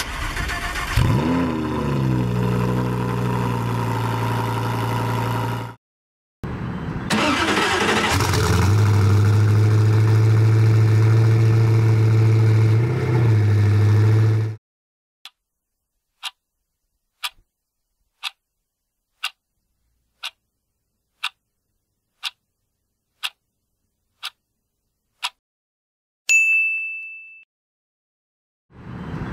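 A Lamborghini Huracán's V10 starts with a rev and settles into a steady idle. After a short break, a Koenigsegg One:1's twin-turbo V8 starts with a rev and idles steadily. Then a clock ticks about once a second for ten seconds, followed by a single bell ding.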